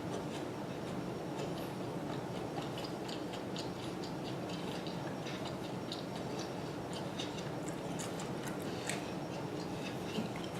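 A person chewing food close to the microphone: many small, irregular wet clicks over a steady low hum.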